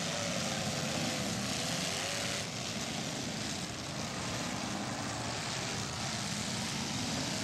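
Engines of several demolition derby cars running and revving together in a loud, steady din, one engine's pitch wavering up and down in the first couple of seconds.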